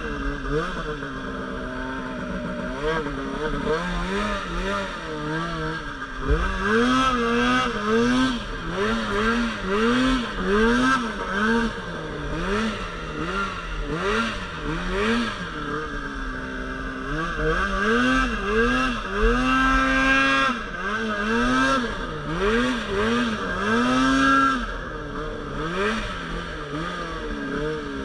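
Polaris RMK Pro 800 two-stroke snowmobile engine revving up and down over and over, its pitch rising and falling about once a second as the throttle is worked in deep powder, with a longer held high rev about two-thirds of the way in.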